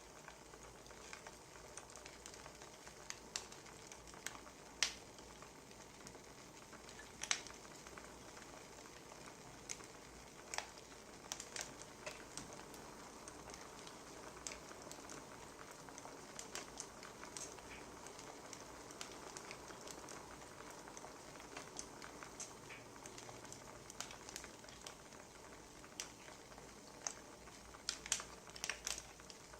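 Wood fire crackling: a steady soft hiss with irregular sharp pops, the loudest about 5 and 7 seconds in and a quick cluster near the end.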